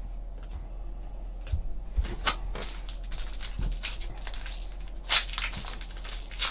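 Crinkling and rustling of a trading-card pack wrapper being torn open and the cards handled, starting about two seconds in, with sharp crackles throughout.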